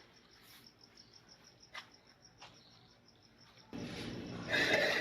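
A cricket chirping in a steady fast pulse, with a couple of faint clicks. About three-quarters in, a much louder rough, grinding noise starts and swells.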